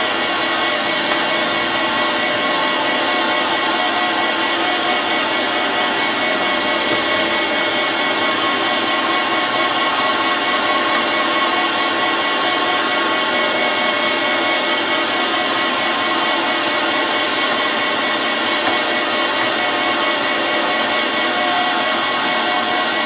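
Surface grinder running, its abrasive wheel grinding the flat face of a steel wood chipper blade: a steady grinding hiss with a constant whine.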